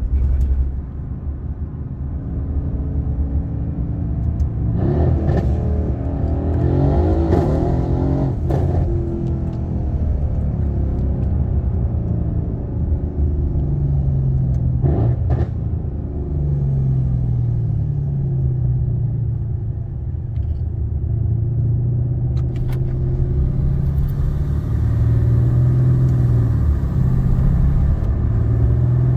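Mercedes-AMG C63 S engine running under a deep, steady rumble, its note rising and falling repeatedly as the revs go up and down, with a few short sharp noises in the first half.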